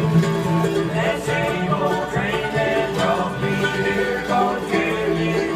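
Bluegrass string band playing live, with mandolins and acoustic guitar.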